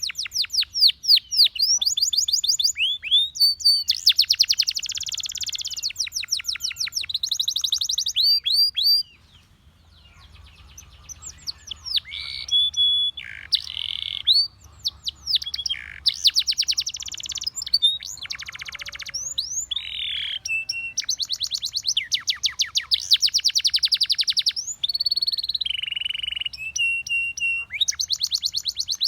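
Russian singing canary singing a long song of fast repeated trills and rolls, switching from one phrase to the next every second or so, with a short pause about nine seconds in.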